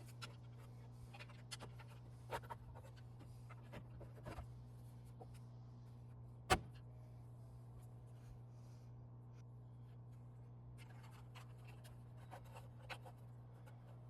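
Faint handling noises of plastic mirror parts being fitted back together, with scattered light clicks and scrapes and one sharp click about six and a half seconds in, over a steady low hum.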